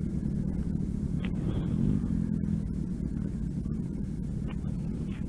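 Motorcycle engine running at low revs as the bike is ridden slowly and brought to a stop.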